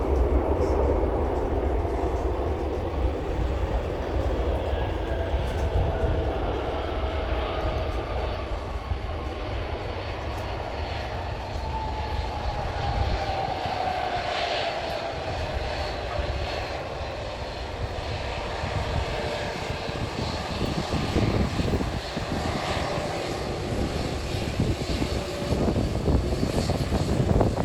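Airliner engines passing by at the airport: a steady low rumble with whining tones that slowly fall in pitch as the aircraft goes past.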